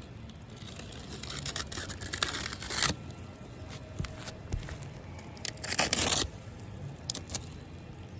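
The wrapper of a fresh bundle of roofing shingles being torn open: two main ripping bursts, one about two seconds in and a shorter one near six seconds, with scattered clicks and rustling between.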